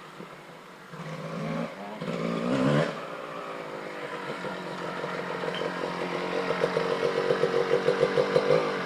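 Two-stroke dirt bike engine running under throttle, the revs rising briefly about two to three seconds in, then holding steady with a pulsing surge, about four a second, growing louder near the end.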